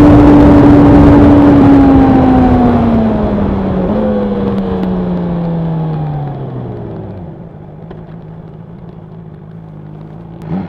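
Honda CB1000R inline-four engine and exhaust at a steady high note, then the throttle closes and the pitch falls as the bike slows, with a step up in pitch about four seconds in as from a downshift. Wind rush fades with the speed, and the engine settles to a quiet, low idle over the last few seconds.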